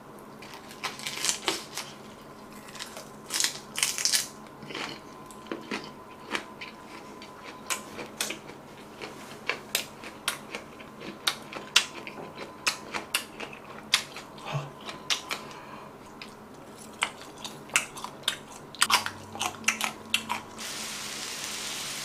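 Close-miked chewing of a grilled pork rib wrap: a long run of irregular wet, crunchy clicks and bites. Near the end a steady sizzling hiss from the tabletop grill comes in.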